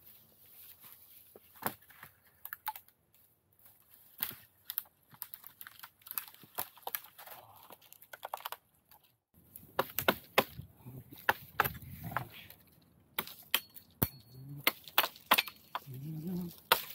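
Sharp clicks and knocks of rocks and sticks being handled and stepped on, sparse at first and coming thick and fast from about nine seconds in. A low voice hums or murmurs briefly near the end.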